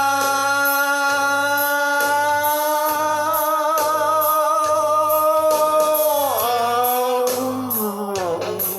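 Hard rock recording: a male singer holds one long high wailing note for about six seconds over a steady drum and bass beat. Near the end the note slides down in pitch twice.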